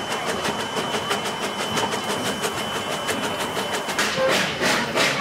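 Narrow-gauge coal-fired steam train running along its track, with a quick, even clicking and a faint steady high whine over the running noise. It grows louder about four seconds in.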